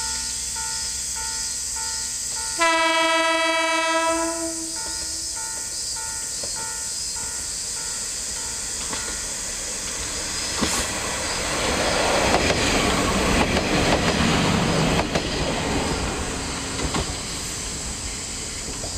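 Diesel railcar sounding its horn in one loud single-pitched blast of about a second and a half, then running past with a swelling rumble and the clickety-clack of wheels over rail joints, loudest in the last several seconds. A ringing tone repeats about twice a second under the first few seconds.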